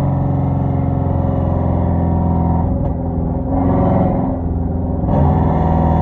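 Hyundai Genesis 5.0 sedan's V8 running through a straight-piped 2.5-inch exhaust with Flowmaster Super 10 mufflers and no catalytic converters, as the car drives. The exhaust note holds steady, dips briefly about three seconds in, swells and falls again, then picks up louder near the end.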